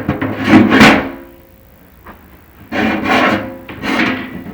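Chimney inspection camera scraping and knocking against the flue liner as it is lowered, in two loud bouts of rasping noise with a short quiet gap between them.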